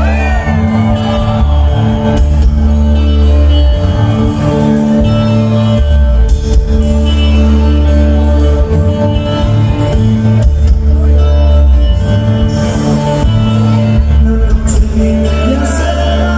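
Loud live band music with a heavy bass line and held chords, and some singing near the end.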